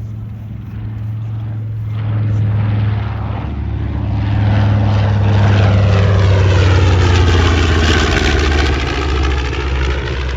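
B-25 Mitchell bomber's twin Wright R-2600 radial engines running as it makes a low pass. The drone grows louder from about two seconds in, is loudest around six to eight seconds, then eases off a little.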